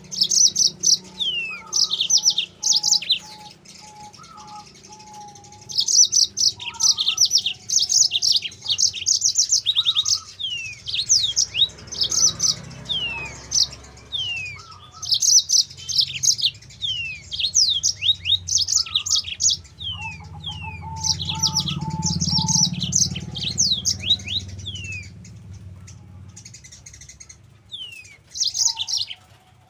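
Yellow-fronted canary (Mozambique canary) singing in full song: fast high trills and chirps in bursts with short gaps, mixed with quick downward-sliding whistles. A fainter, lower note is repeated several times in a row near the start and again about two-thirds of the way through.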